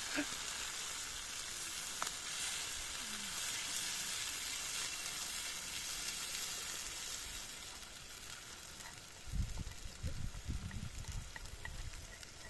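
Ground spice paste sizzling as it fries in hot oil in a wok, a steady hiss that eases off after about seven seconds. A few low thumps come in the last few seconds.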